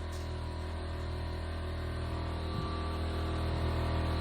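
Vacuum cleaner running steadily: a motor hum under a hiss of rushing air, growing slightly louder.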